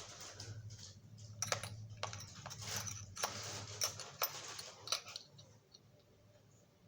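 Small metal pieces clicking and clinking, about eight sharp clicks over a few seconds, as when loose drill bits are sorted through by hand, over a low steady hum that fades out after about five seconds.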